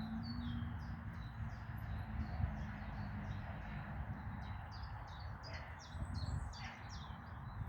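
Small songbirds chirping, a rapid run of short high notes, over a low steady background rumble.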